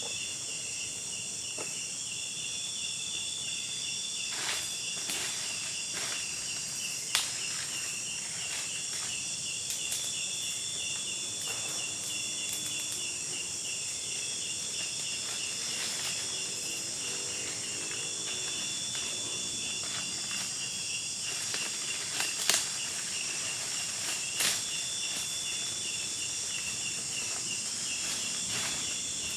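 Steady chorus of insects in tropical woodland, one high chirping trill pulsing rapidly over a constant higher buzz. A few sharp clicks or knocks break in now and then.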